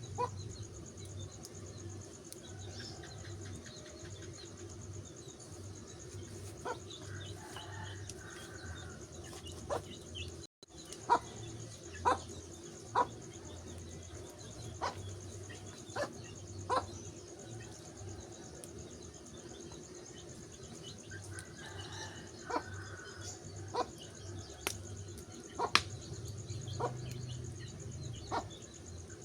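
Wood fire crackling, with sharp pops at irregular intervals over a steady low rumble. The sound cuts out for a moment about ten seconds in.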